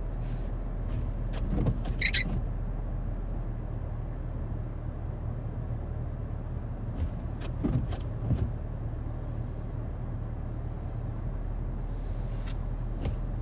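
A vehicle engine running steadily at idle, with a short squeak about two seconds in and a few light knocks later on.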